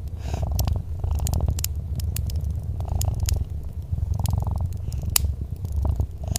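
Domestic cat purring steadily, a low rhythmic rumble that swells with each breath, while a wood fire gives off scattered sharp crackles and pops.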